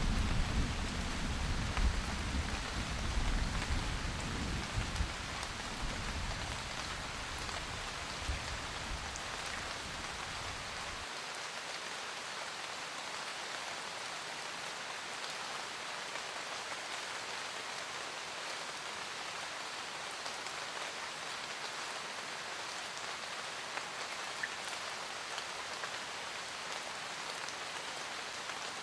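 Steady rain falling, a continuous even hiss. Over the first ten seconds or so a low thunder rumble dies away, ending abruptly about eleven seconds in, leaving only the rain.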